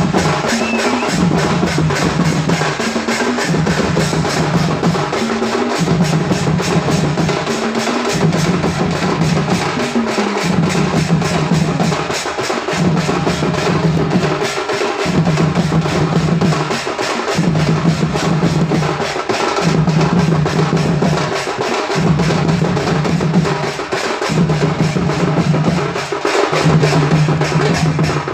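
Loud, fast drumming, dense and unbroken, over a deep bass note that cuts out and comes back about every two seconds.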